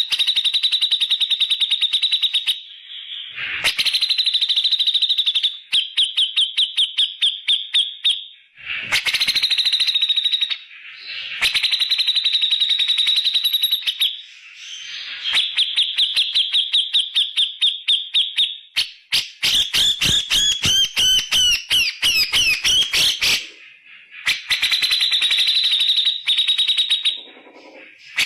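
Cucak jenggot (grey-cheeked bulbul) singing loudly in 'tembakan' style: rapid trains of sharp repeated notes lasting a few seconds each, broken by short pauses. About two-thirds of the way through, a more varied warbling phrase with gliding notes.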